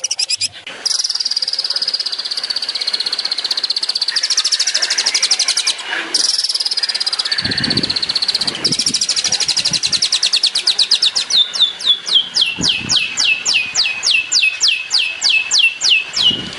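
Long-tailed shrike (cendet) singing a fast, unbroken stream of high, rapidly repeated notes. In the second half this turns into a quick run of sharp downward-sweeping notes, about four a second.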